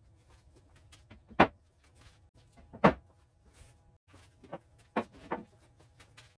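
Sharp knocks and clinks of hard objects being handled and set down. Two louder knocks come about a second and a half apart, followed by a few lighter ones.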